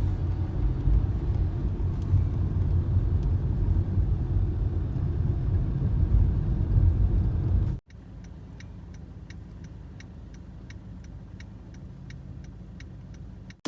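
Car driving, a steady low road and engine rumble. About eight seconds in it cuts off suddenly to a much quieter stretch with light, evenly spaced ticking, about three ticks a second.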